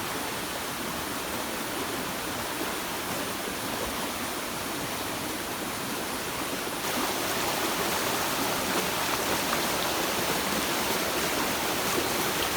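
Steady rush of water from a small rain-fed stream and waterfall running full after heavy rain. It steps up a little louder about seven seconds in.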